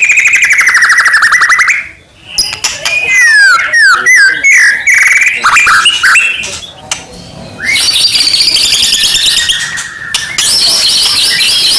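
White-rumped shama (murai batu) in full song. It opens with a rapid trill, breaks off at about two seconds, then runs through varied whistled notes and quick downward swoops. After a quieter patch it finishes with another fast, high rattling trill.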